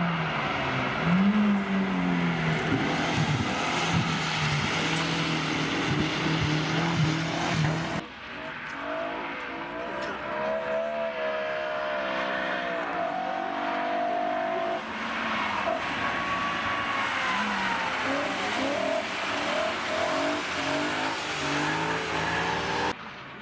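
Car engines revving and rising and falling in pitch as the cars are driven hard on a wet track, with a hiss of tyres on the wet asphalt. The sound changes abruptly about eight seconds in, when a different car is heard.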